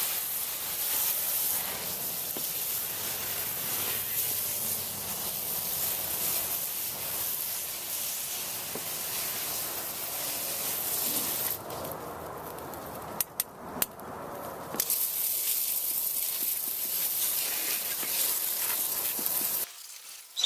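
A garden hose with a soap-dispensing sprayer attachment sprays water and dish soap over a car's engine bay as a steady hiss. The spray stops for about three seconds midway, with a few clicks, then starts again and cuts off near the end.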